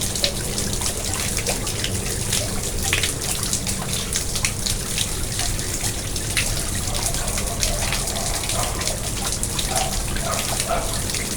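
Garden pond water splashing and trickling steadily, with many small droplet splashes on the surface.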